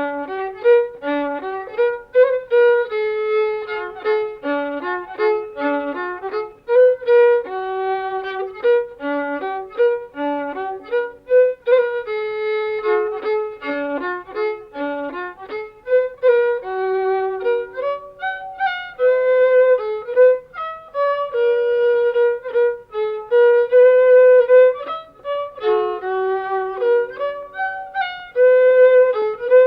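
A violin playing a melody of changing sustained notes as background music.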